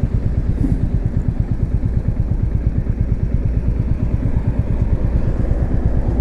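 Royal Enfield Meteor 350's single-cylinder engine idling with a steady, even thumping beat.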